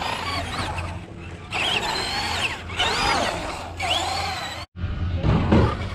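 Electric motors of RC cars whining as they rev up and down in several bursts of about a second each.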